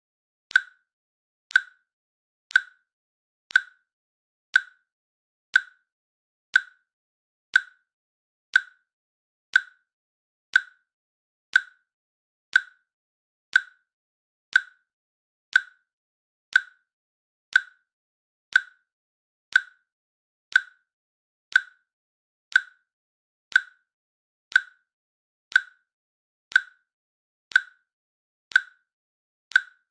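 Timer click track: a short, sharp click once a second, evenly spaced, each with a brief ring at a fixed pitch.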